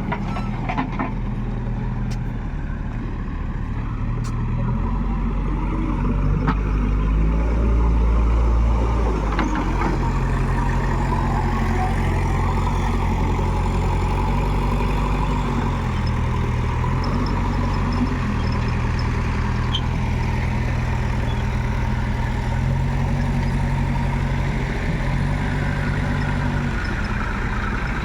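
Heavy diesel machinery engine running continuously, its low note stepping up and down as the load and revs change, loudest for a few seconds near the start.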